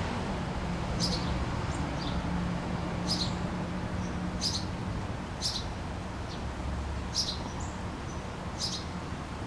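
A backyard bird chirping again and again, short single high chirps about every second or so, over a steady low hum.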